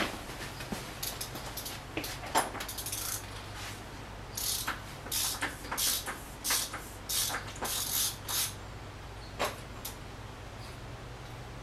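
Irregular clicks and scraping of hand tools working at the oil filter housing, over a steady low hum.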